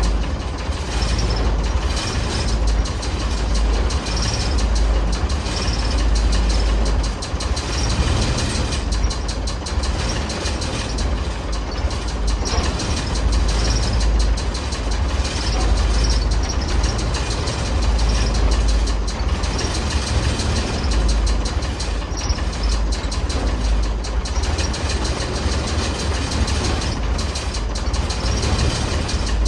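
Ford D-series 1314 truck's turbocharged engine running steadily, a fast ticking rattle over a deep pulsing drone.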